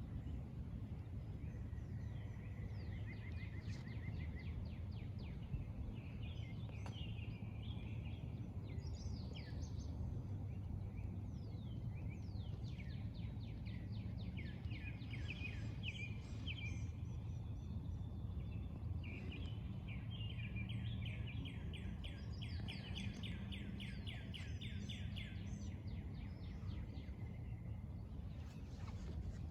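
Songbirds singing: repeated rapid trills and chirping phrases, some overlapping, over a steady low rumble.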